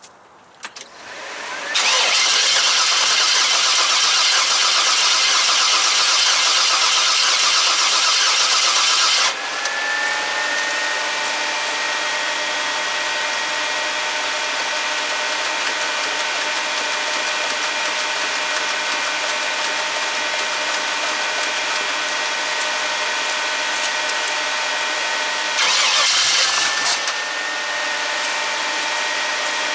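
Chevrolet 350 small-block V8 in an S-10 pickup starting from cold, not yet fully tuned. It is loud for several seconds, drops about nine seconds in to a steady run with a constant whine, and has a brief louder burst near the end.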